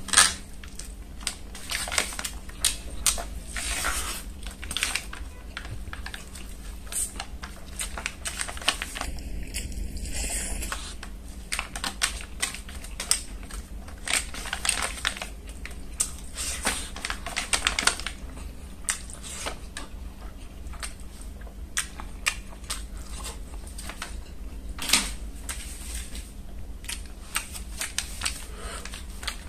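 Close-miked eating sounds: wet chewing, mouth smacks and crunchy bites in a rapid run of short clicks, with fingers picking food from an aluminium foil tray. A faint high tone sounds for about a second around nine seconds in.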